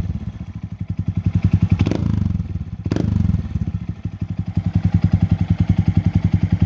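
2022 Honda Monkey's single-cylinder four-stroke engine idling through a Yoshimura RS3 exhaust, an even, deep pulsing beat. The level swells briefly around two and three seconds in, where two light clicks are also heard.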